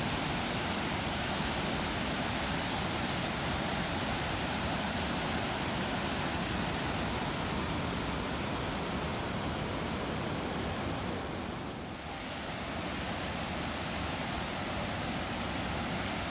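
Steady rushing roar of Cumberland Falls, a large river waterfall, dipping briefly about twelve seconds in.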